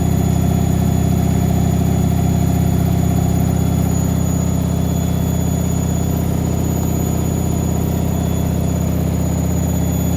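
Whirlpool AWM 864 Aquaprogramm front-loading washing machine running, a steady motor hum that does not let up or change.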